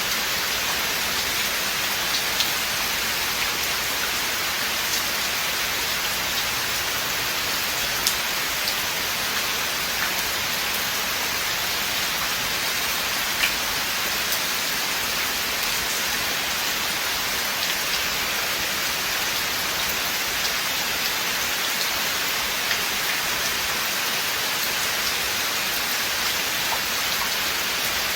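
Steady rain falling in a forest, an even hiss with scattered individual drops ticking.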